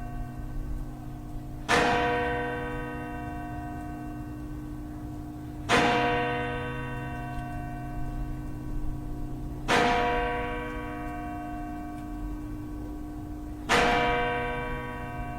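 A single church bell tolling slowly: four strokes about four seconds apart, each ringing on and fading into the next, with a low hum sustained underneath.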